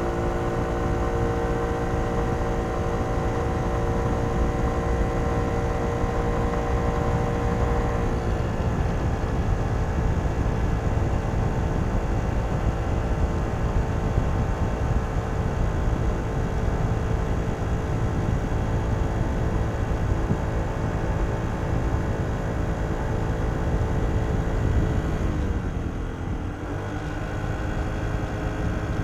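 Kymco Downtown 125i scooter's engine on its stock exhaust, running under way over a steady low wind and road rumble. The engine note drops about eight seconds in. Near the end it falls further as the scooter slows, then picks up again.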